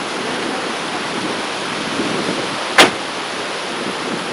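Steady outdoor rushing noise on a home camcorder's microphone, broken by one sharp click just under three seconds in.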